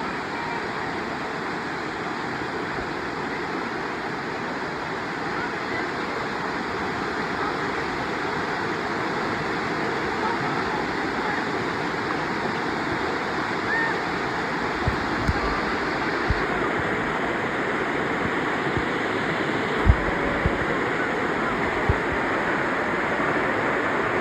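Steady rush of water from the Algar waterfalls and river current, with a few short low thumps in the second half.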